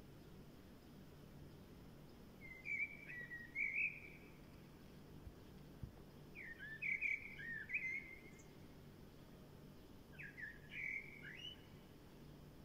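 A songbird singing three short warbling phrases a few seconds apart, over a faint steady low hum.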